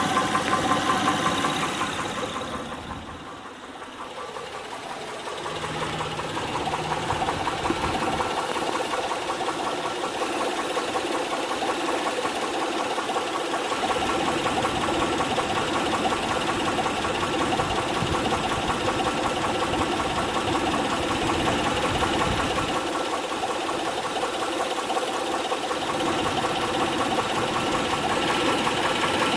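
2006 Honda Pilot's 3.5-litre V6 running with a steady knocking from the engine, the sign of a defective camshaft lobe. It goes briefly quieter a few seconds in.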